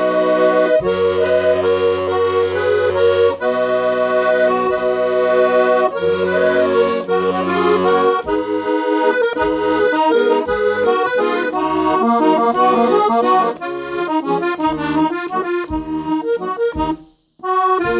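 Accordion playing the instrumental introduction of a hymn in E-flat minor: held chords over a bass line at first, then a quicker run of melody, breaking off briefly near the end.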